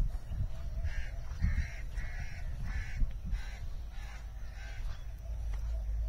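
A bird calling in a quick series of about eight short calls, starting about a second in and stopping near the end, over a constant low rumble with soft knocks.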